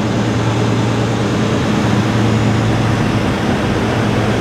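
Chevrolet Caprice engine idling steadily, heard close to the open engine bay: a constant low hum over an even mechanical noise.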